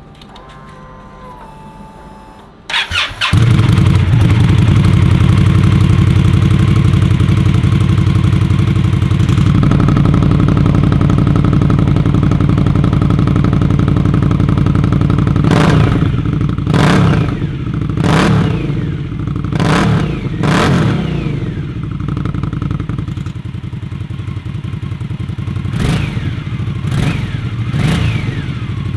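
Indian Scout Bobber's liquid-cooled V-twin started up about three seconds in and idling steadily. From about halfway on it is given about eight quick throttle blips, each revving up and falling back to idle.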